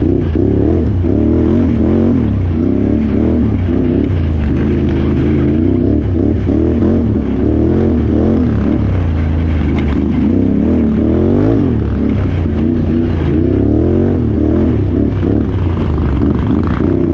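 Can-Am Renegade XXC 1000R quad's V-twin engine revving up and down as it is ridden hard off-road, its pitch rising and falling again and again.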